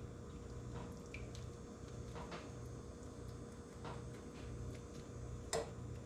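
Chicken pieces being turned over in their juices in cast iron skillets: soft wet squishing and a few light clicks of the utensil against the pan, the sharpest near the end, over a steady low hum.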